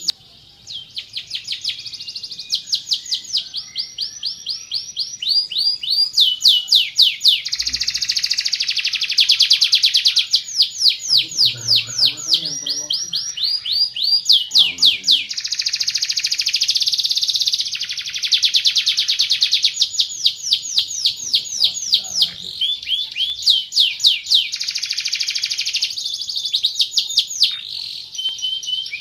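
Van Hesterling canary singing a long, continuous song of fast repeated trills and rolls, strings of quick sweeping high notes that change speed and pattern every second or two.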